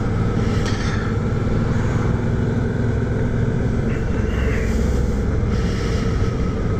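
Motorcycle engine running steadily under way, with wind and road noise, while riding at a constant speed.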